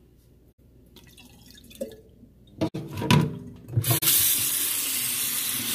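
A few knocks and clatter at the sink, then a faucet turned on about four seconds in, with water running steadily into the sink.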